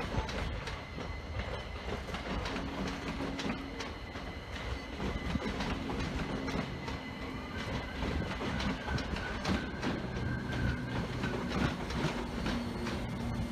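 Train moving slowly through a station, its wheels clicking over rail joints, with a steady low hum and a higher whine from the train's equipment.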